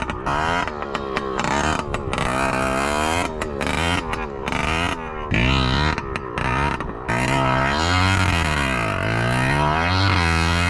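2007 Yamaha PW80's 80cc two-stroke engine being revved hard, its pitch climbing and falling again and again with the throttle. The sound cuts off abruptly several times.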